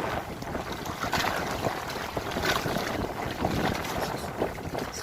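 Wind buffeting the microphone and water splashing around a kayak in choppy waves.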